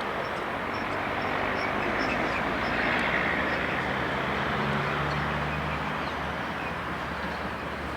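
A vehicle passing with a low engine hum, the noise swelling to a peak about three seconds in and then easing off.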